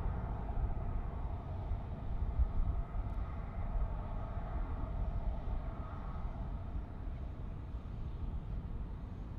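Jet airliner rumbling steadily, easing off a little toward the end.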